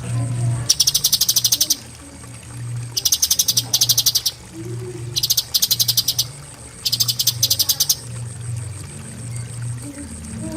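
Cucak cungkok (bulbul) singing its 'tembakan' song: bursts of a very fast, high-pitched rattling trill, each lasting about half a second to a second. The bursts come singly or back to back, about five times.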